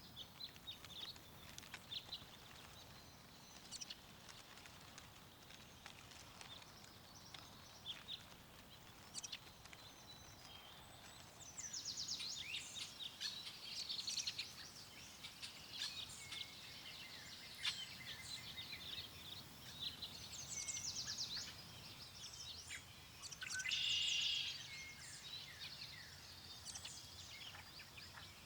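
Songbirds chirping and trilling, scattered at first and busier and louder from about halfway in, over a faint steady wind hush.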